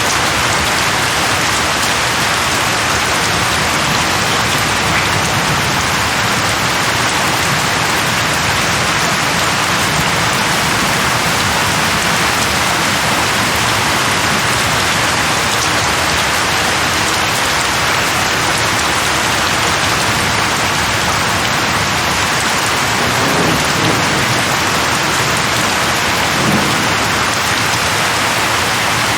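Steady heavy rain falling in a rainstorm, with a low rumble of distant thunder twice near the end.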